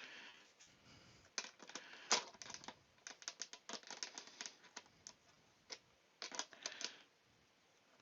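Light metallic clicks and clatters of a spanner and small metal fittings being handled, in irregular clusters.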